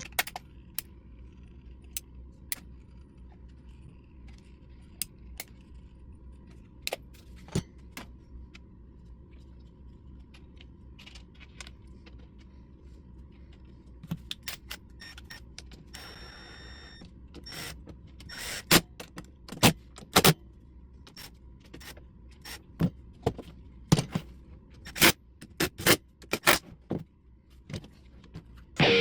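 Workshop construction sounds: scattered clicks and clinks of tools and parts being handled, a brief power-tool burst about two-thirds of the way through, then a run of loud sharp knocks, like hammering or fastening wood, under a faint steady hum.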